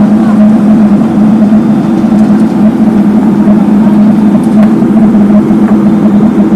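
Heavy road-works machinery's diesel engine running loudly and steadily at a constant speed, with a strong, even hum.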